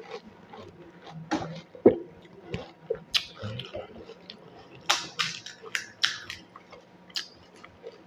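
Chewing crisp panipuri (golgappa) shells, with wet mouth sounds and an irregular string of sharp crunches and clicks.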